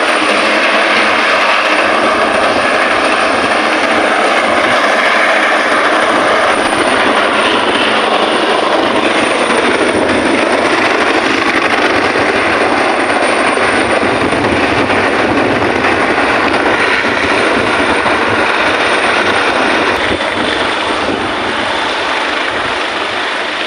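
Helicopter running, a loud steady noise that eases off slightly near the end.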